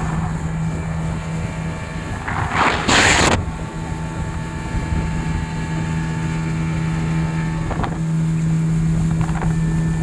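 Motorboat engine running at a steady pitch, with water and wind rushing past the hull. A brief loud rush of noise comes about two to three seconds in.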